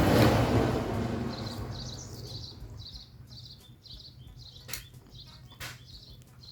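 A loud, even rushing noise fades away over the first two seconds, like a vehicle passing and receding. Then steady high chirping repeats a few times a second, with two sharp clicks in the second half.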